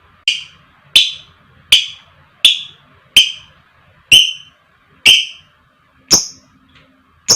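Lovebird giving a series of short, shrill, high-pitched calls, about one a second, each starting sharply and dying away quickly.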